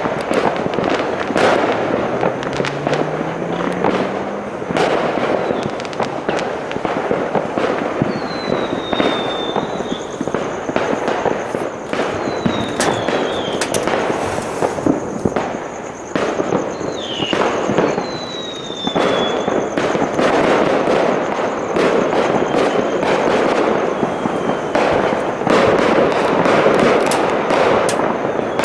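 Many fireworks and firecrackers going off at once in a dense, continuous crackle of bangs and pops. Several short whistles, each falling in pitch, come through in the middle stretch.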